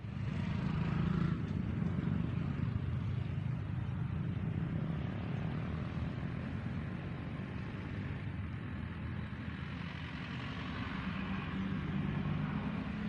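A motor vehicle's engine running steadily, with a low, even drone and a haze of road or wind noise over it.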